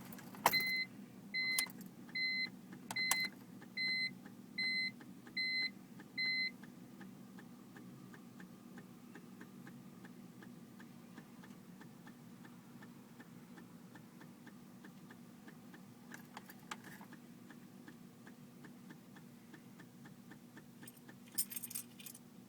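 In a 2004 BMW 325Ci that won't start: eight evenly spaced electronic warning beeps, then a fast, even ticking, about three to four a second, over a low steady hum. A few sharp clicks and jangles of keys come between, the last cluster near the end.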